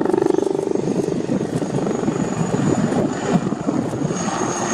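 HAL Light Combat Helicopter in display flight, its rotor beating over the engine noise, with a thin, steady, high turbine whine that grows louder near the end.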